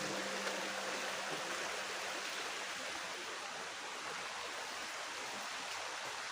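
River water flowing over rocks, a steady rushing.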